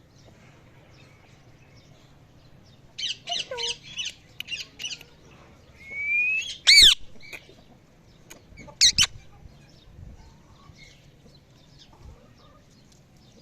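Parrot calling: a quick run of short chirps, then a rising whistle that breaks into a loud, sharp squawk, and a second loud squawk about two seconds later.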